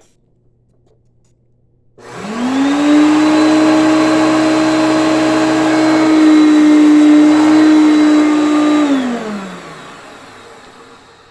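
Hoover Concept One vacuum cleaner switched on about two seconds in. Its motor spins up with a rising whine, runs steadily for about seven seconds, then is switched off and winds down with a falling whine. This is a short test run with the brush roll refitted, to check for a stretched belt pulling the roll out too far, and no fault is heard.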